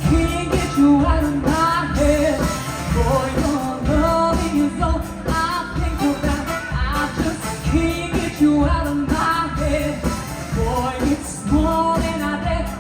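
Live pop music with a singer and a steady beat, as from a stage show band.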